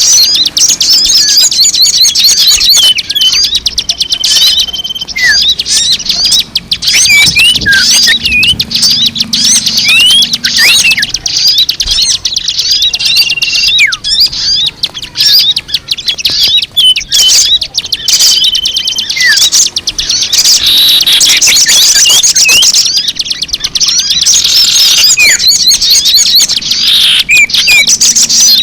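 A dense, continuous chorus of many small birds chirping and twittering, played as a bird-lure recording, with a short level whistled note recurring every few seconds among rapid high chirps.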